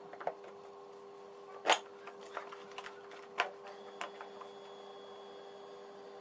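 Scattered clicks and knocks of a vacuum cleaner's plastic parts and screws being handled during disassembly, six or so, the loudest about a second and a half in, over a faint steady hum.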